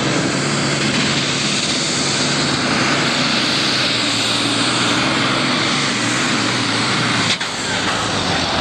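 Super stock pulling tractor's turbocharged diesel engine running flat out under load as it drags the weight sled, a loud steady drone. Its level dips briefly and sharply near the end.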